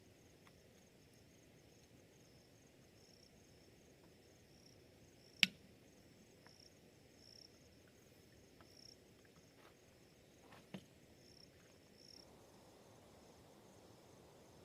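Faint night insects chirping steadily at a high pitch in repeated pulses, with one sharp click about five seconds in and a softer click near eleven seconds.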